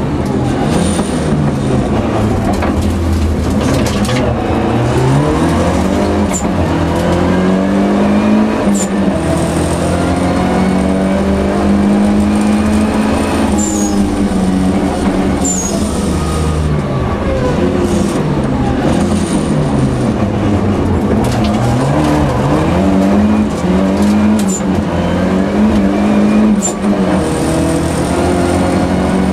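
Volvo 242 Turbo rally car's turbocharged four-cylinder engine, heard from inside the cabin, driven hard: the revs climb and drop again and again as it goes through the gears and brakes for corners.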